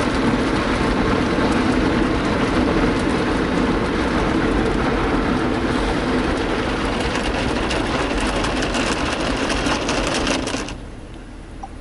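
Ryko Softgloss Maxx soft-touch car wash running over the car, heard from inside the cabin: a steady dense wash of spinning cloth brushes and water spray on the body. It cuts off sharply near the end.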